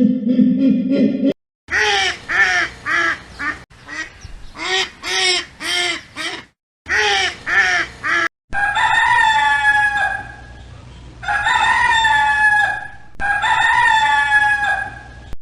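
Chickens: a run of short repeated clucks, about two or three a second, then a rooster crowing three times, each crow nearly two seconds long.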